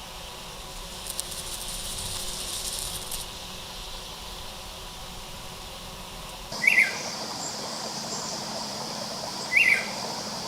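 Rainforest ambience of steady insect noise, with a high rasping insect trill for about two seconds near the start. About two-thirds of the way through the background changes abruptly to a steady high insect whine, and a bird gives two short, loud, downward-sliding calls about three seconds apart.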